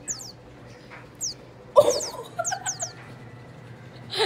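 Small bird chirping: quick high notes, each falling in pitch, repeated several times a second in short runs. A louder short call comes about two seconds in, and a sharp click near the end.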